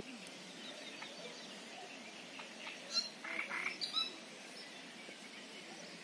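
A few short bird calls clustered around the middle, over a faint steady outdoor background.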